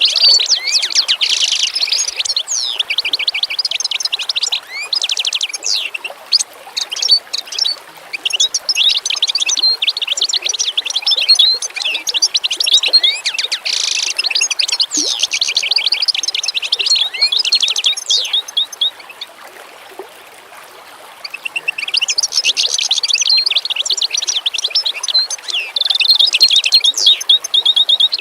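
Many small birds chirping and twittering densely in quick, overlapping high calls, with a lull of about two seconds roughly two-thirds of the way through before the chorus picks up again.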